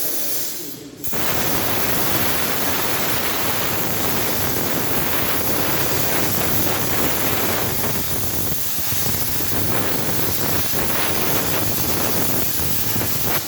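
Plasma torch of a SteelTailor Dragon III CNC cutting machine cutting, a steady rushing hiss that starts abruptly about a second in and stops near the end.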